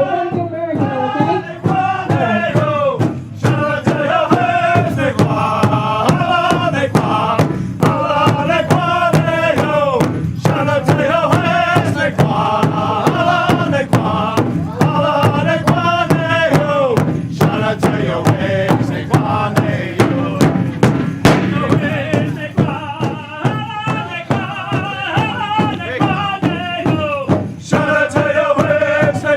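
Pow-wow song: male singers chanting together over a steady, evenly spaced drumbeat.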